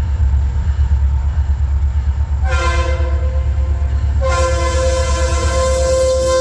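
Freight train's diesel locomotive horn sounding several notes together: a short blast about two and a half seconds in, then a long blast from about four seconds in. A steady low rumble runs underneath.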